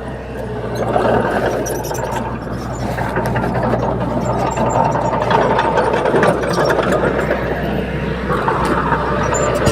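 Heavy diesel engine of a bulldozer running steadily under load, with scattered light metallic clicks over it.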